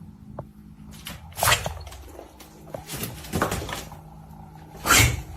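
A few sharp knocks or thumps over a faint steady hum: one about a second and a half in, another around three and a half seconds, and the loudest near the end.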